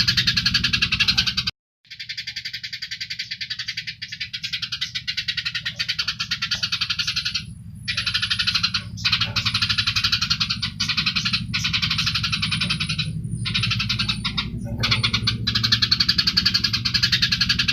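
Songbird masteran recording: dense, very rapid trilled bursts, the tight 'tembakan rapat' calls, in spells a few seconds long with a short full break about one and a half seconds in and briefer pauses later, over a low steady pulsing throb.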